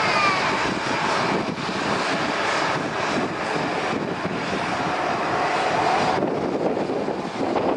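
Airliner engines running loud at close range: a broad rushing noise, with a high whine falling in pitch near the start. The highest hiss drops away about six seconds in.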